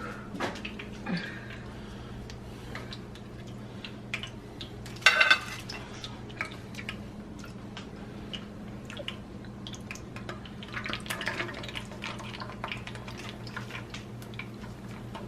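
Corn tortillas frying in hot oil in a pan, with scattered crackles and pops and the clicks of a utensil against the pan. There is a brief loud burst about five seconds in, a denser stretch of crackling a few seconds before the end, and a steady low hum underneath.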